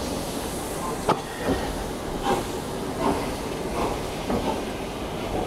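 Steam locomotive 60163 Tornado, an LNER Peppercorn A1 Pacific, hissing steady steam, with a string of short sharp clanks and brief squeals every half second to a second.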